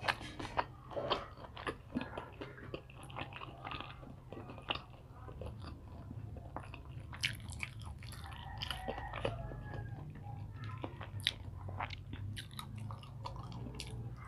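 Close-up mouth sounds of a person chewing and biting batter-coated quail eggs (kwek-kwek): wet smacks and light crunches at irregular intervals, over a low steady hum.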